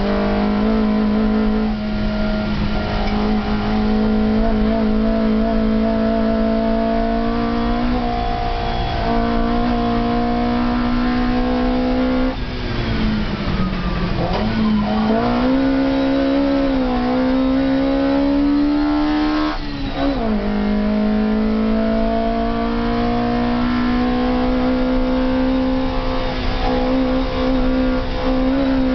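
Fiat 128 race car's inline-four engine at full throttle, heard from inside the cabin, climbing in revs with short dips at each gearshift. About halfway through the engine pitch falls as it slows for a bend, then climbs again.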